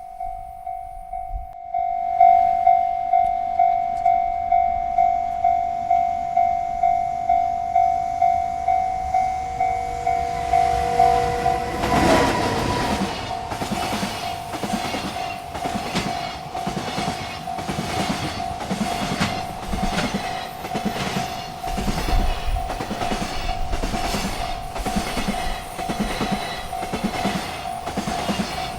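Railroad crossing bell ringing in steady strokes about twice a second. About twelve seconds in, a freight train reaches the crossing and rolls through, its wheels clacking in a steady rhythm over the rail joints while the bell keeps ringing.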